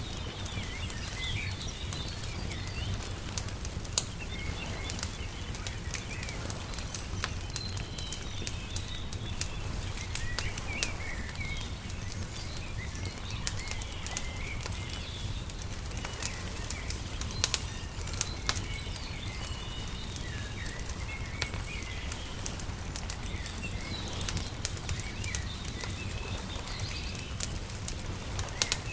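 Wood fire crackling with scattered sharp pops over a steady low rumble, while small birds chirp on and off.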